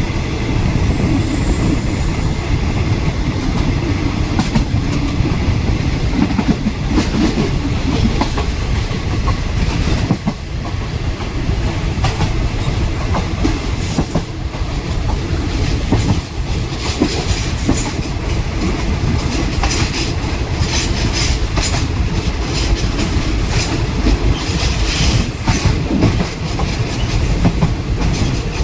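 Passenger train running at speed, heard from aboard: a steady low rumble of the wheels on the track, with a constant clatter of clicks and knocks from the wheels and carriages that grows busier in the second half.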